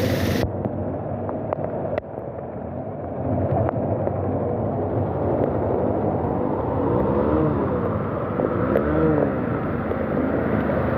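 Vehicle engine and road noise while moving, with the engine pitch rising and falling a few times about seven to nine seconds in.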